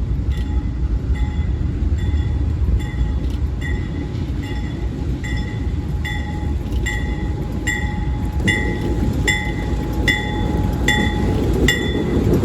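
A train rumbling by, with a railroad bell ringing at a steady beat of a little more than one strike a second that grows louder. The rumble swells about two-thirds of the way through.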